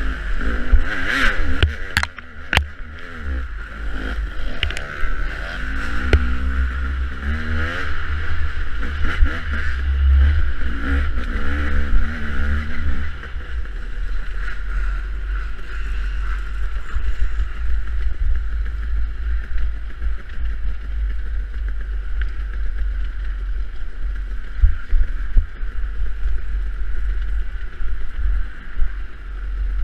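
Off-road dirt bike engine under way, its pitch rising and falling as the throttle is worked for the first dozen seconds or so, then holding steadier, over heavy wind buffeting on the microphone. A couple of sharp knocks come about two seconds in.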